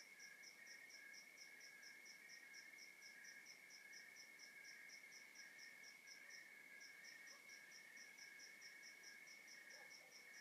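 A faint chorus of crickets at night: one gives a steady high trill, another chirps in pulses about twice a second, and a higher-pitched one chirps about four times a second, pausing briefly partway through.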